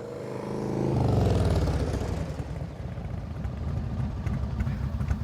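Motorcycle engines rumbling with a pulsing beat, growing louder over about the first second and then running steadily.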